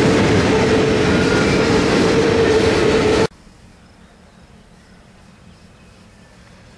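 Double-stack intermodal freight train passing at speed: loud rumble of wheels on rail, with a steady whine running through it. It cuts off suddenly about three seconds in, leaving only faint outdoor background.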